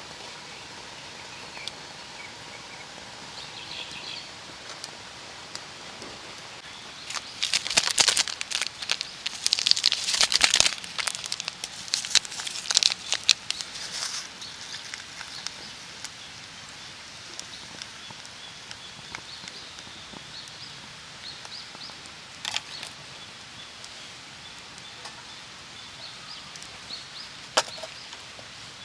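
Dry wood crackling and snapping: a dense run of sharp cracks for several seconds a third of the way in, then a few single cracks later, over a steady outdoor hiss.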